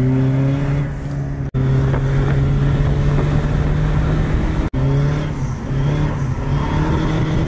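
Tuned Peugeot 206 2.0 HDi four-cylinder turbodiesel, with a silencer-deleted exhaust, running hard with its note climbing slightly. The sound comes in three short clips, with abrupt cuts about a second and a half in and again near five seconds.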